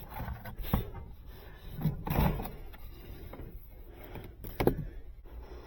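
Rubbing and scraping with three sharp knocks spread through a few seconds, as thermostat wire is fed down inside a wall cavity.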